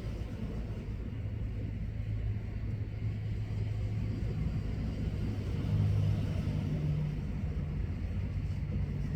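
A vehicle engine running at low revs, a steady low hum that swells briefly about six seconds in.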